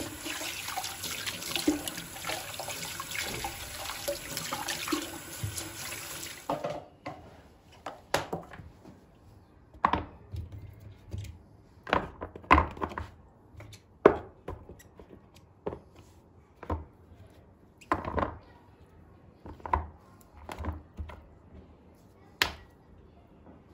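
Tap water running into a kitchen sink, cutting off sharply about a quarter of the way in. After that come scattered separate knocks and clatter, like objects being handled and set down on a counter.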